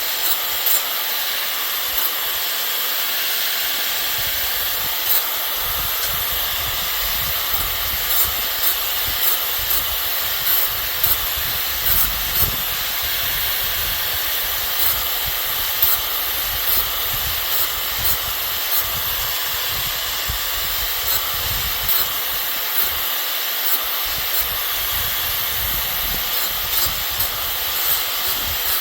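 Steady hissing noise with irregular small crackles and clicks throughout.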